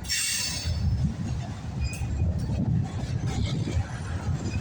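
Freight cars of a passing CSX train rolling by at close range: a steady low rumble of wheels on rail, with a brief sharp metallic screech right at the start.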